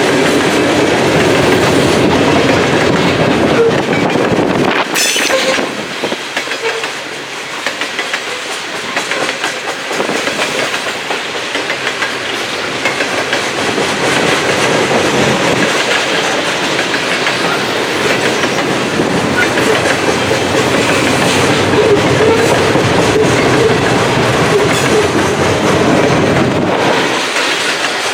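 Coal cars of a freight train rolling past, steel wheels running on the rails with steady wheel-and-rail noise that eases briefly about five to eight seconds in.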